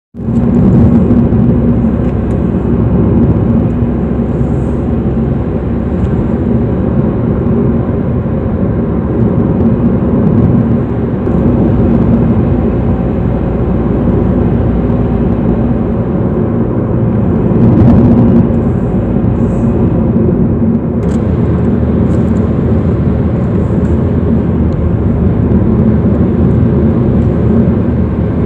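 A car driving: steady engine and road noise, heaviest in the low range and unbroken throughout.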